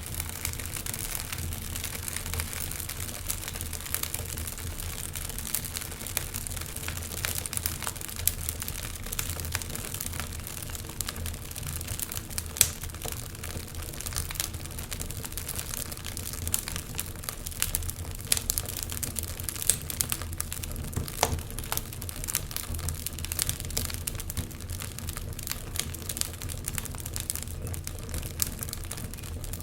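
Wood fire crackling, with frequent irregular pops and snaps over a steady hiss and low rumble of burning, one sharper pop about halfway through.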